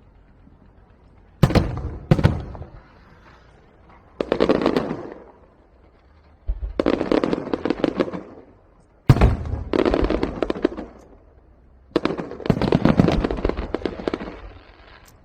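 Fireworks going off: sharp bangs, then four bursts of dense crackling, each lasting one to two seconds, with short lulls between.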